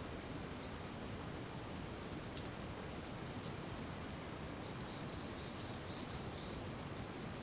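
Steady rain falling, with scattered sharp drips. From about four seconds in there is a quick run of short, high chirps.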